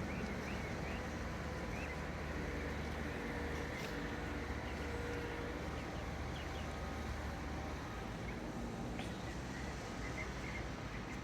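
Steady outdoor background noise with a constant low hum, a few faint held tones and scattered faint bird chirps.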